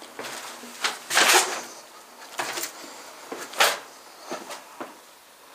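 Footsteps and shoe scuffs, irregular knocks with a longer scrape about a second in.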